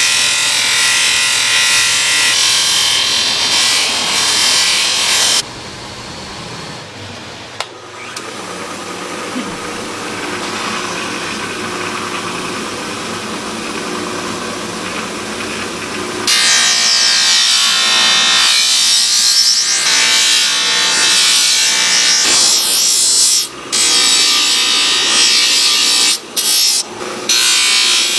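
A power tool working against material. It is loud at first, runs more quietly through the middle stretch, then comes back loud and cuts out briefly several times near the end.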